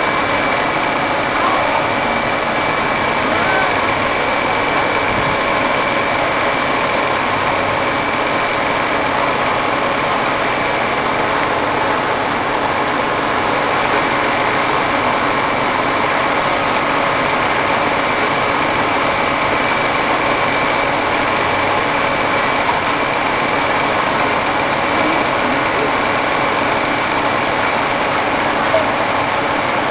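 Big truck's engine running steadily: an even mechanical drone with a few constant tones, unchanging throughout.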